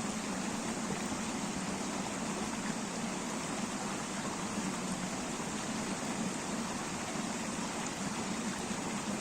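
A river running: steady rushing and babbling water from a shallow mountain stream, even throughout.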